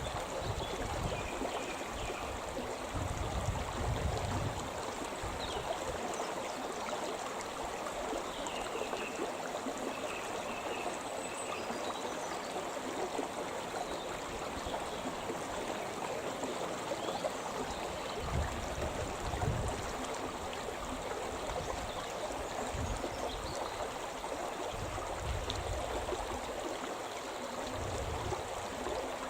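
The Shimna River running: a steady rush of flowing stream water, with occasional low rumbles.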